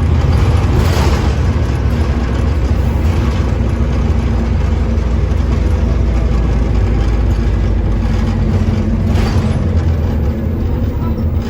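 Scania OmniCity diesel bus engine running with a steady low drone, and two brief hisses, one about a second in and one near the end.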